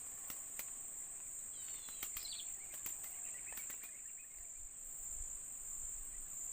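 Steady high-pitched drone of insects, with a few sharp clicks in the first half and some short chirps about two seconds in.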